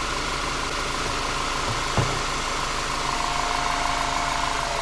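Skoda Octavia A5's engine idling steadily while its 09G automatic transmission's fluid is being flushed. There is a single click about two seconds in, and a faint steady whine joins about three seconds in.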